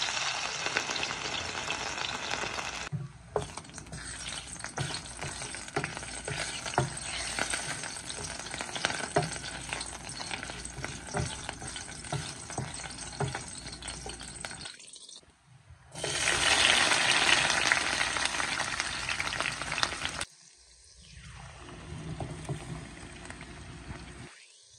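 Pieces of dried Bombay duck (loitta shutki) sizzling as they fry in hot oil in a steel pan, with short scrapes and taps as a wooden spatula stirs them. The sizzling is loudest about two-thirds of the way in, then drops to a low sizzle near the end.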